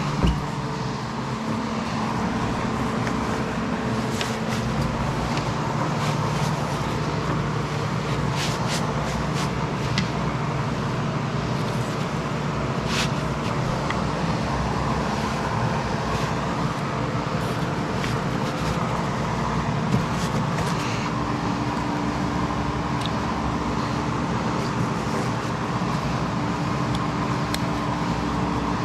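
A steady mechanical drone with a low hum runs throughout, with a few short, light clicks and knocks scattered through it.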